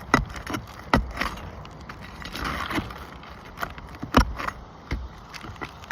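A tool prying and scraping under asphalt roof shingles to pull out a fastener: irregular clicks and knocks with scraping between them, the loudest knock about four seconds in.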